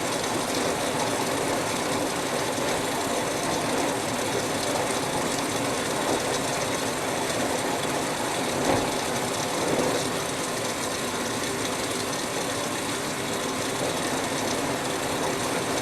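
Whirlpool Duet Sport front-load washer running its rinse cycle, water flowing in to fill the drum: a steady rushing hiss with one brief knock about nine seconds in.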